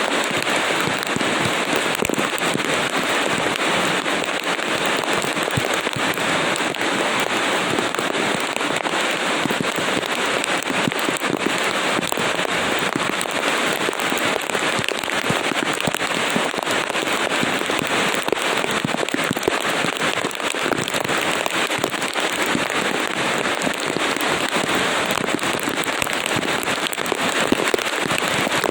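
Heavy rain falling steadily, a dense even hiss full of fine drop impacts.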